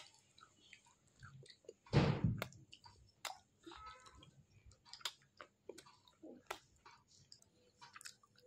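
Mouth chewing a lightly smoked edible clay roll: soft crunches and small clicks, with one louder crunch about two seconds in. The clay is soft and only a little crunchy.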